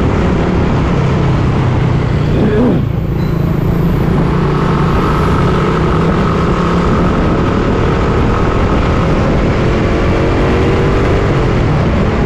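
Suzuki Raider 150 Fi single-cylinder motorcycle engine running under way, mixed with heavy wind and road noise on the bike-mounted microphone. The engine pitch briefly rises and falls about two and a half seconds in.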